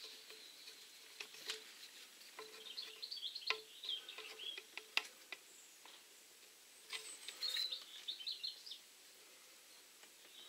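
Small birds chirping, in quick high twittering notes that come in two spells, about two and a half seconds in and again about seven seconds in. A few sharp clicks are heard among them.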